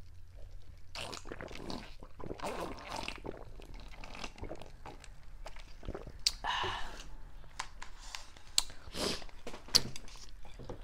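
A person chewing noodles close to the microphone: irregular wet chewing and mouth sounds with sharp clicks and smacks.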